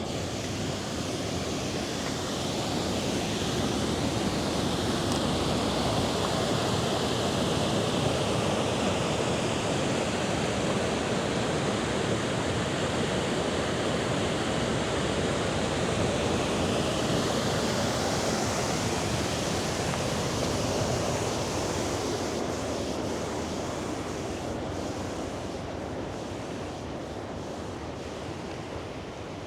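Rushing river water: a steady roar of flowing water that grows louder through the middle and fades off toward the end.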